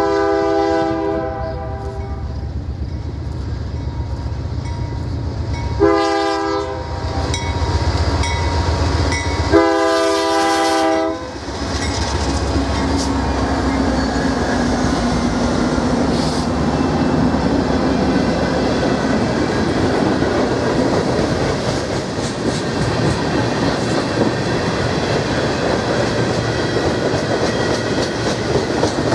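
Air horn of a CN Dash-9 diesel locomotive leading a manifest freight train, sounding three blasts: a long one at the start, a short one about six seconds in, and another long one about ten seconds in. The locomotives' diesel engines pass with a low rumble, then the freight cars roll by with a steady clickety-clack of wheels on rail.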